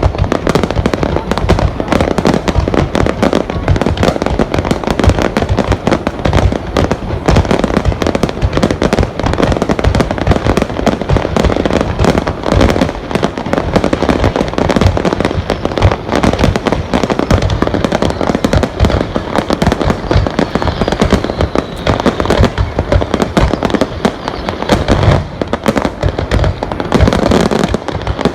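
Fireworks going off in a continuous rapid barrage of bangs and crackles, many blasts a second with no pause.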